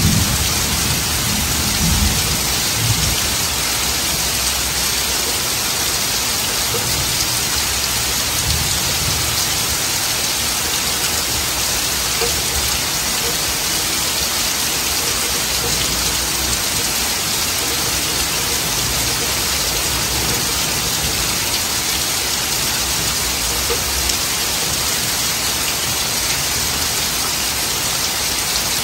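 Heavy rain falling steadily on trees, shrubs and wet ground, an even hiss. A low rumble of thunder dies away in the first few seconds.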